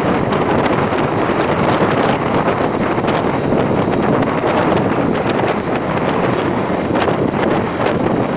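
Loud, steady wind buffeting on the microphone during a ride, with rapid crackling gusts and no clear engine note above it.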